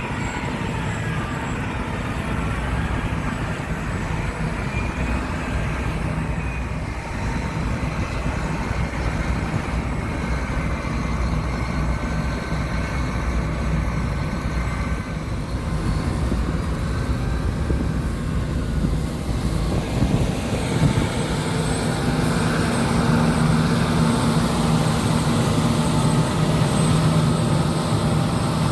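John Deere S780 combine harvester running steadily while straight-cutting wheat, its engine and threshing machinery making a constant drone. About two-thirds of the way through, the sound changes and grows a little louder.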